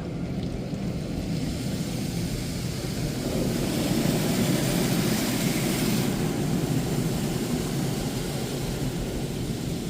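Washworld Razor automatic car wash running a flex pass cycle: the machine runs steadily while high-pressure water sprays over the car, the spray hiss swelling from about a second in and cutting off suddenly about six seconds in. The pass is an unusually slow one.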